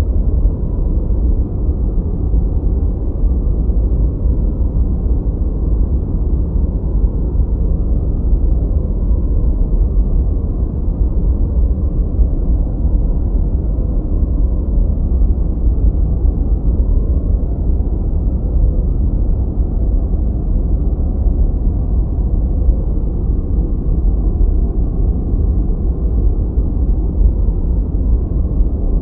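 Continuous noise track, deep and muffled: a steady rumbling hiss with most of its weight in the lows and almost nothing above the middle range, unchanging throughout.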